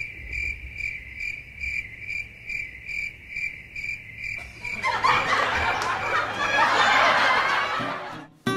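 Cricket-chirping sound effect, a single high chirp repeating about two and a half times a second, the comic cue for an awkward silence. About five seconds in, louder snickering laughter takes over for a few seconds.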